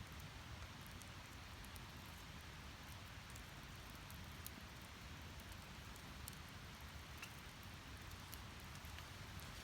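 Split firewood burning in a small fire pit, faint: a few scattered sharp crackles and pops over a steady low background noise.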